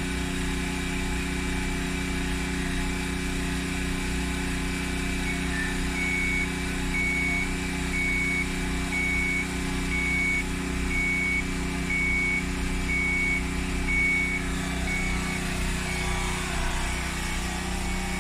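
A steady low mechanical hum, with a high electronic beep repeating about once a second for roughly ten seconds in the middle.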